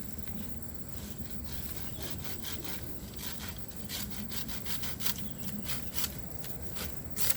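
Hand saw cutting through a bamboo stem in short, irregular strokes that come thicker in the second half, with a sharper stroke near the end.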